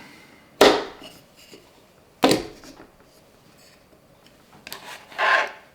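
A battery being handled and set into a 3D printed plastic box: two sharp knocks about a second and a half apart, then a scraping rustle near the end.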